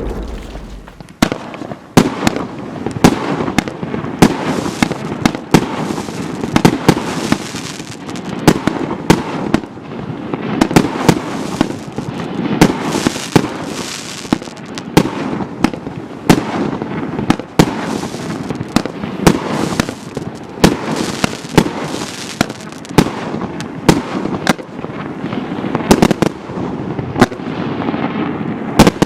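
Storm Blast firework barrage firing shot after shot, roughly two sharp bangs a second, with crackling between them.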